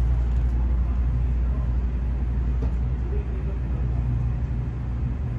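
Steady low rumble inside the cabin of a Tokaido Shinkansen Kodama train as it slows alongside a station platform, easing slightly in the second half.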